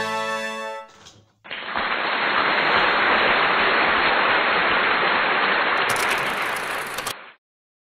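A horn-like tone fading out in the first second, then a steady, loud hiss of noise for about five and a half seconds that cuts off suddenly near the end.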